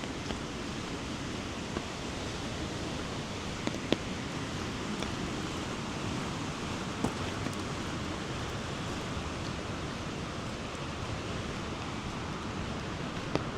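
Steady rushing noise of water, with a few sharp ticks scattered through it, the loudest about four seconds in.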